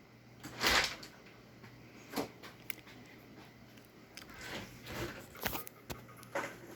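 A few scattered short knocks and brief rustling noises at a low level, the loudest a short rustle near the start.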